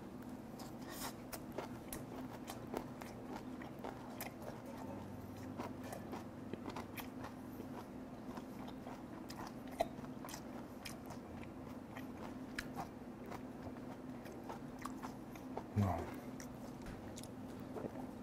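Close-up chewing of fermented skate (hongeo), a run of small crunches and clicks as the skate's cartilage is bitten through. A steady low hum lies underneath, and there is one brief louder low sound near the end.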